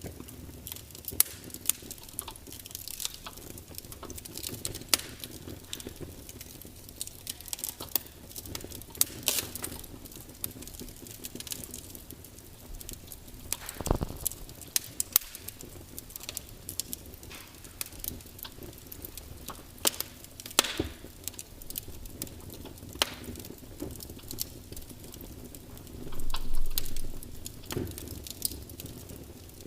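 Log fire burning with irregular crackles and sharp pops from the wood, one louder pop about halfway through, and a brief louder rush of flame or hiss near the end.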